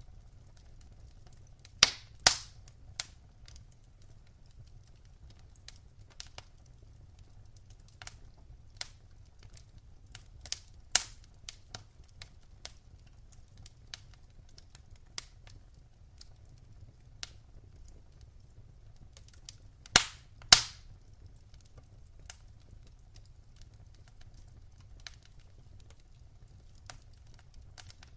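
Wood fire crackling in a fireplace: scattered sharp snaps and pops over a low steady rumble, with the loudest pops about two seconds in and again about twenty seconds in.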